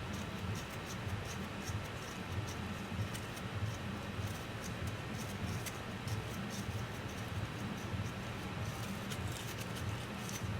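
Small irregular clicks and scratches, like hand tools and brushes working over laptop parts, over a steady low hum.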